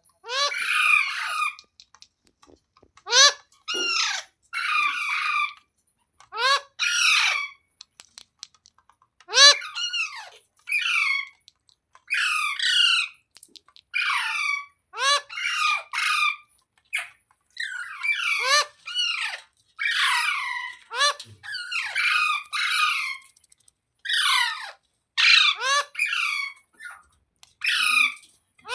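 Parrot giving a long series of short, harsh squawking calls, each falling in pitch, often in quick pairs with short pauses between.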